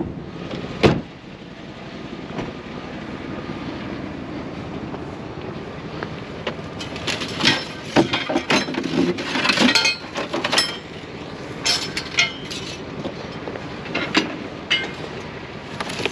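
Curbside junk being handled: a sharp knock about a second in, then a run of clinks and knocks in the second half, over a steady rumble.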